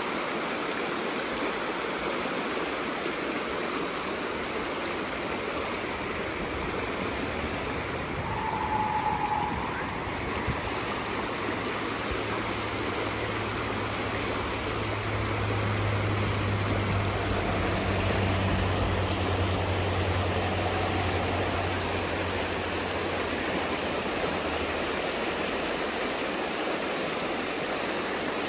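A small creek rushing steadily over its bed. Through the middle a low hum swells and fades again.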